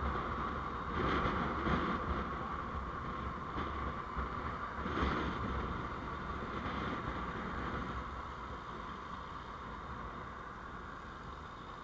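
Steady vehicle road noise while driving: a low rumble under a band of hiss, with a few brief louder swells, gradually fading toward the end.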